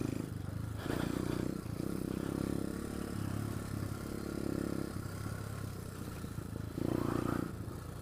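SSR125 pit bike's small single-cylinder four-stroke engine revving up in short bursts about a second in and again near the end, dropping back between, as the bike picks its way over rocks with little traction on either tire.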